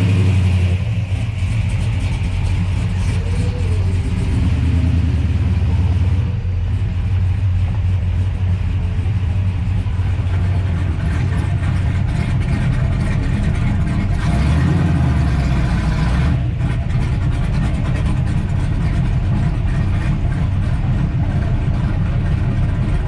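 Classic muscle-car engines running low and steady, the sound changing abruptly about six and sixteen seconds in.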